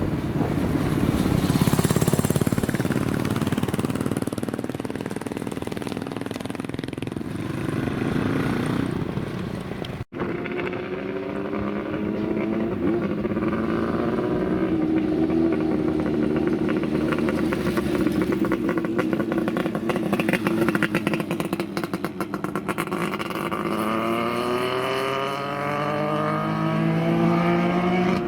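Classic motorcycle engines running and being revved. About ten seconds in the sound cuts abruptly to another engine, whose pitch rises and falls as it is revved, climbing steeply near the end.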